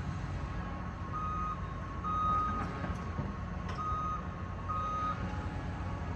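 Reversing alarm of heavy demolition equipment beeping four times at one pitch, over the steady low rumble of diesel engines.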